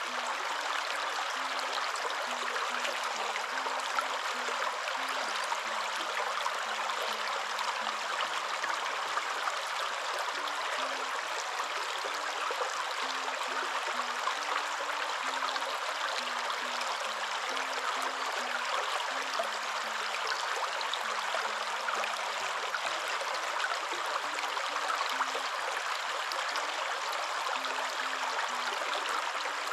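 Waterfall rushing steadily, an even, unbroken noise of falling water with no lulls.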